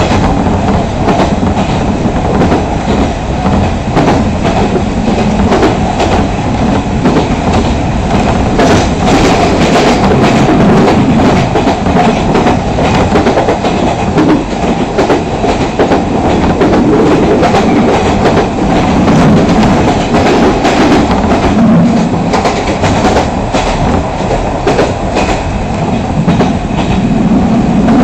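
A Fukui Railway Fukubu Line train running along the track, heard from inside the car. The wheels on the rails make a steady rumble with frequent clicks and knocks.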